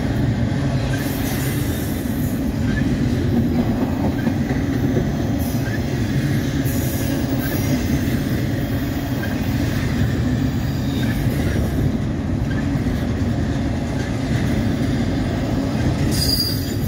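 Double-stack intermodal well cars rolling past: a steady rumble of steel wheels on rail.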